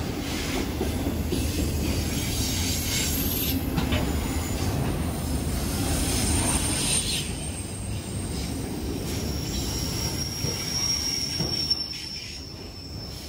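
Autorack freight cars rolling past close by: a steady rumble of steel wheels on rail with a few clicks, and a thin high wheel squeal that rises out of it about nine seconds in and holds to the end.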